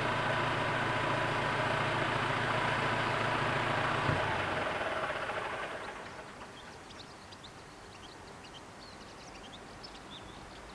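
SJ X40 electric double-deck train passing over a level crossing, a steady rumble with a single knock about four seconds in, dying away over the next two seconds. Short, high bird chirps follow in the quiet.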